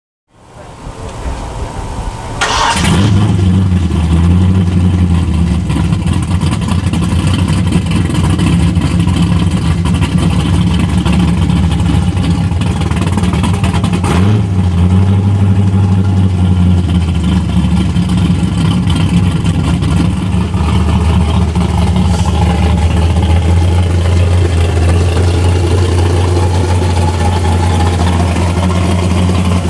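A muscle car's V8 engine starts: a couple of seconds of cranking, it catches about three seconds in, then idles loudly and steadily. A short sharp crack sounds about halfway through.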